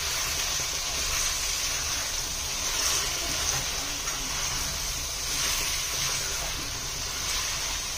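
Raw chicken pieces frying in hot oil in a pan, a steady sizzle.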